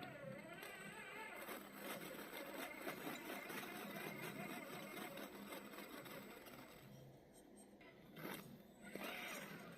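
Radio-controlled scale truck's small electric motor and gears whining, the pitch rising and falling with the throttle, over a scraping crawling noise, with a sharp knock about eight seconds in.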